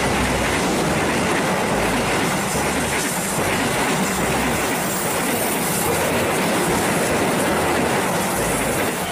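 A passenger train passing close by: a steady rush of noise from the moving cars, with the wheels clacking over the rail joints every second or so.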